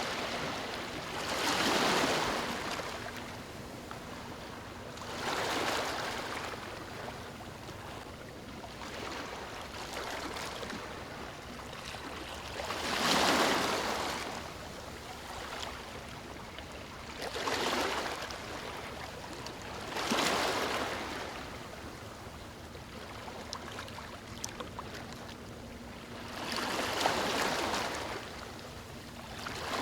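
Ocean waves breaking and washing up a beach, a wave swelling and fading every few seconds, about seven in all, over a steady hiss of surf.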